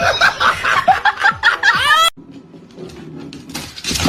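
People laughing loudly, with high rising and falling shrieks, for about two seconds; it drops to a lower murmur, and a short burst of noise comes near the end.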